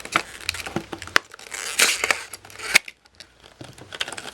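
A toy's windowed box being opened and handled: packaging crinkling and crackling, with sharp clicks and louder rustles near the middle, then briefly quiet about three seconds in.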